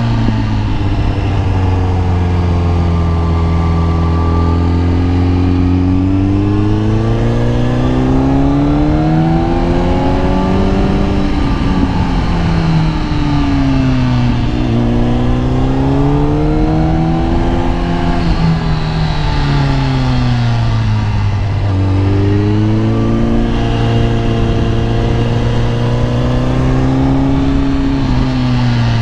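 Kawasaki ZX-10R inline-four sport-bike engine under way, its revs climbing and dropping back several times as the rider rolls on and off the throttle.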